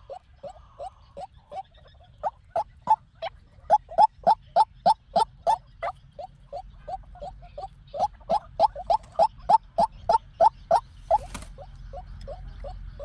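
White-breasted waterhen calling: a long run of short, sharp repeated notes, about three to four a second, with brief pauses between runs.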